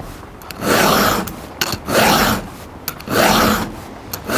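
Round file rasping across a chisel-chain chainsaw cutter in three push strokes, about one every second and a quarter, with light ticks between as the file is drawn back. The tooth is being filed back to grind out impact damage from the chain hitting something hard.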